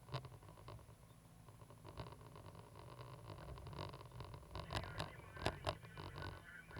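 Cat 320GC excavator's diesel engine running with a low, steady rumble, with scattered clicks, rattles and scrapes that grow busier near the end.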